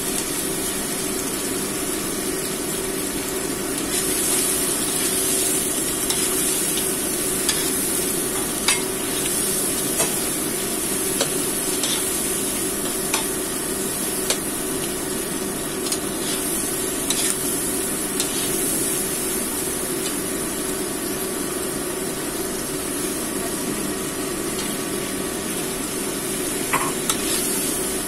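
Fish heads and vegetables stir-frying in a hot nonstick wok: a steady sizzle, with a metal spatula clicking and scraping against the pan every few seconds.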